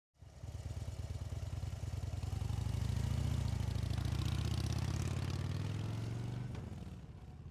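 Harley-Davidson V-twin motorcycle engine rumbling with a steady beat. It swells over the first few seconds and then fades away near the end, as if riding past.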